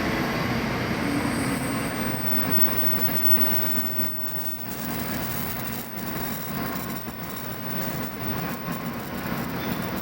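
Shinkansen train running, a steady rumble and rushing noise with a faint wheel squeal.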